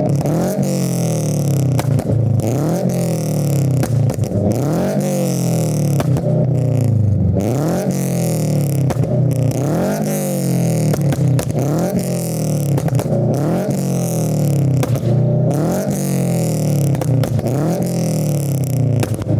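2022 Subaru BRZ's 2.4-litre flat-four, on unequal-length headers, a catless front pipe and a Greddy RS exhaust, revved repeatedly while parked: roughly once a second the pitch jumps up and then falls back. Between the blips the exhaust pops and crackles on the overrun from a pops-and-bangs tune.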